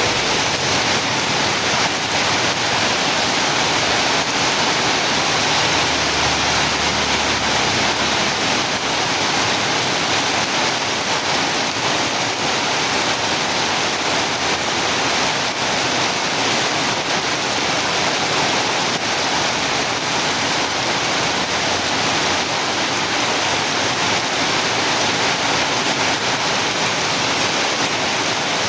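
Heavy rain pouring down in a steady, dense hiss, without let-up.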